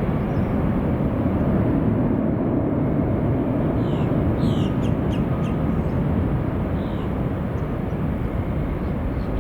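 Steady rumble of jet airliner engines, with a few short bird chirps about four to five seconds in and again near seven seconds.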